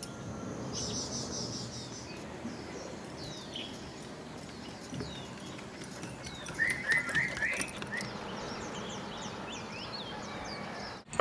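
Wild birds chirping and calling, many short quick notes and falling whistles, with a louder run of chirps about seven seconds in, over a steady faint background noise.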